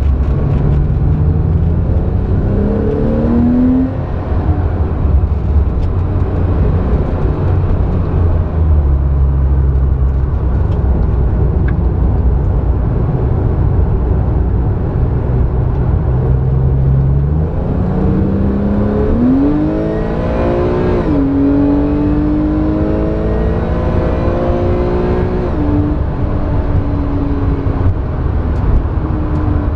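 Porsche 911's flat-six engine heard from inside the cabin on track, rising in pitch under acceleration and dropping at upshifts, most clearly in the second half, over a steady low rumble of road and wind noise.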